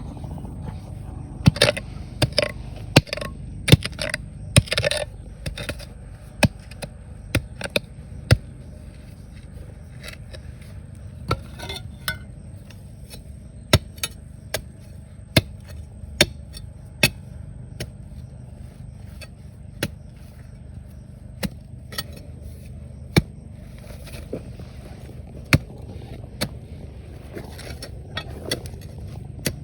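Stones and gravel knocking and scraping as riverbed rock is dug through by hand, a sharp click every second or so and a quick cluster in the first few seconds, over a steady low rush.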